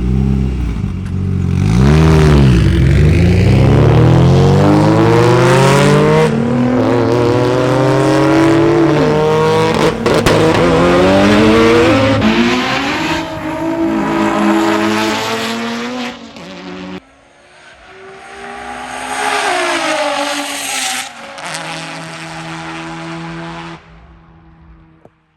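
Street cars' engines at full throttle in roll races, pitch climbing hard and dropping back at each gear shift, in several short clips cut together.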